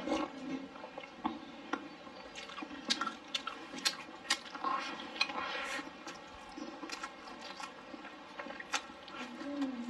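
A person chewing and eating close to the microphone, with wet chewing, lip smacks and irregular sharp clicks, several in a second at times, as she eats braised meatballs with rice.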